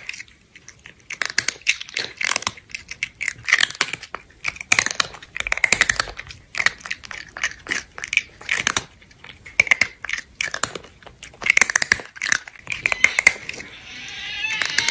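Crunchy chewing and munching: a run of short, crackly bites in irregular clusters with brief gaps between them, as of a cheeseburger being wolfed down.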